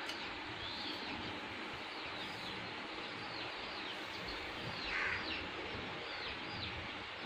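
Birds chirping: many short, quick falling chirps over a steady background hiss, with one louder call about five seconds in.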